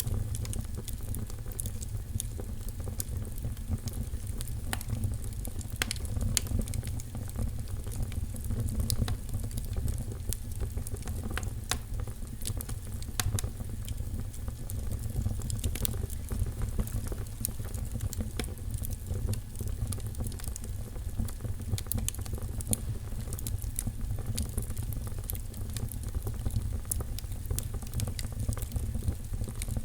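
Wood fire crackling in a fireplace: many irregular small sharp pops and snaps over a steady low rumble.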